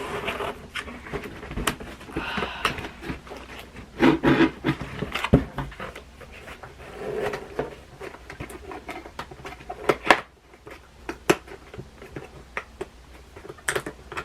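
Handling noise from unboxing: rustling packaging and a bag being moved about, with many small taps and clicks and a few louder knocks.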